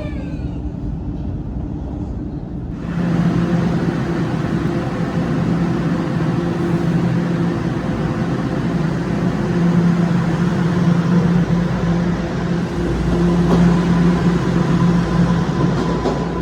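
A TTC Line 1 subway train running, a steady rumble with a hum that rises and falls in strength. It comes in suddenly about three seconds in, after a quieter stretch of station noise.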